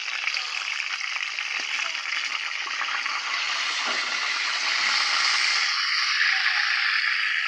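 Flour-coated chicken pieces frying in a pot of hot oil: a steady crackling sizzle that grows a little louder about halfway through.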